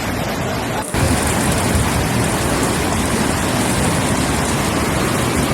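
Steady rushing of floodwater, a dense noise with no clear pitch, which cuts abruptly about a second in and comes back louder.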